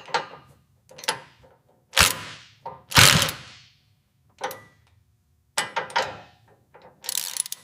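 A string of separate metallic clanks and knocks, about seven in all, as a heavy vehicle part is set down onto its mounts and fitted. The loudest comes about three seconds in and rings briefly.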